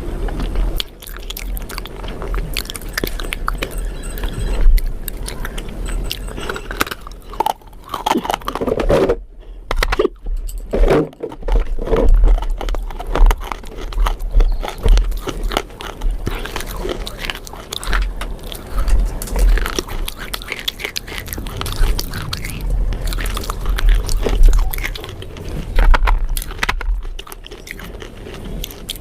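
A person biting and chewing something crisp close to the microphone, with dense, irregular crunches.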